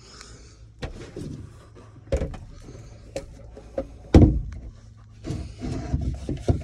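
Snips cutting off a length of strap: several sharp snaps and clacks, the loudest about four seconds in, with handling noise between them.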